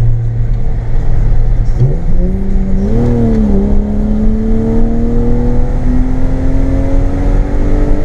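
BMW M52B28 2.8-litre straight-six with a straight-piped exhaust, holding a steady note, then revving up sharply about two seconds in, dipping briefly, and climbing steadily under acceleration.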